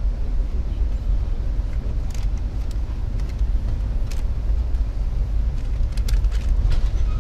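Steady low rumble of a passenger train running, heard from inside the coach car, with a few faint clicks and rattles.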